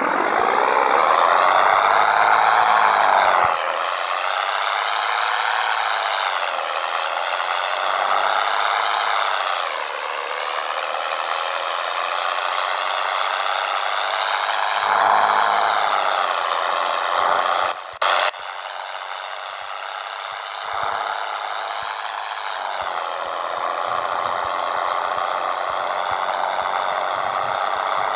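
Scania 113 truck's six-cylinder diesel engine running under load, its pitch rising and falling several times as it revs up and shifts through the gears. About two-thirds of the way through, the sound drops briefly with a sharp click.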